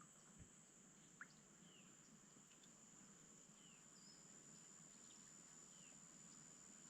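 Faint outdoor ambience: a steady high-pitched insect trill, with a few faint short bird chirps and a small tick about a second in.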